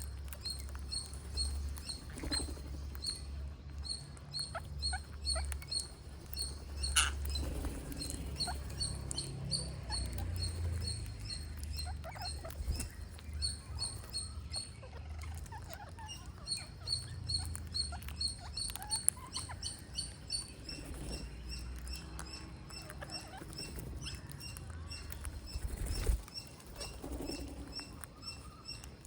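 Green parrots chirping, a fast run of short, high squeaky chirps repeated over and over, with scattered light taps and scratches and a low rumble underneath.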